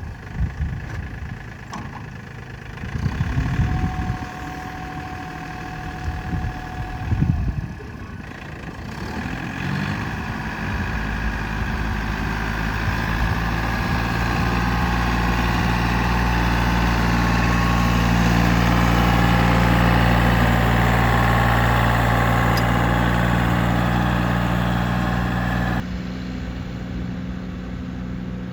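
Tractor engine running steadily, growing louder over several seconds before the sound drops abruptly near the end. Two brief low rumbles come in the first several seconds.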